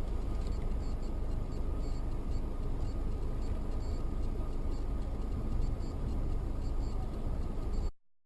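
Steady car driving noise, the rumble of road and engine, as a dashcam picks it up, with no distinct crash or impact; it cuts off suddenly near the end.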